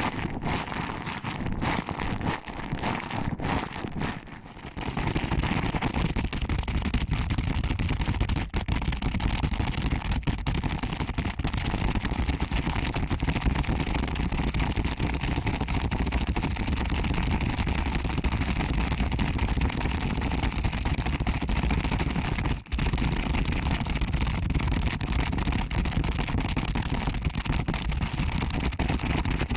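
Fingers pinching and rubbing an ASMR microphone's ear, a dense crackling rustle close up. It eases off briefly about four seconds in, then goes on steadily with a short break a little after twenty-two seconds.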